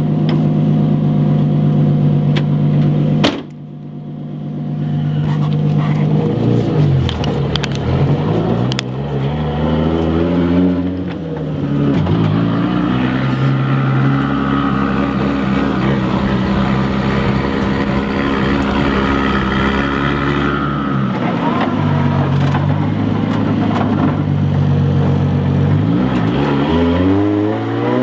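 Turbocharged 1JZ straight-six engine in a Toyota Cressida being driven hard. The note holds steady, drops sharply about three seconds in, then climbs and falls several times as it pulls through gear changes. It holds a long steady note through the middle and climbs again near the end.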